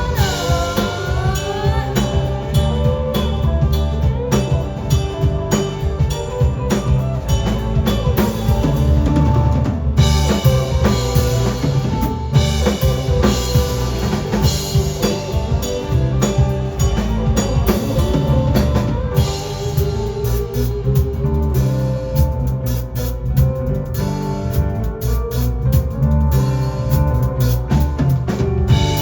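Live band playing an instrumental passage with no vocals: a drum kit keeps a steady beat with bass drum and snare under bass and held melodic notes. A sliding, falling note sounds about a second in.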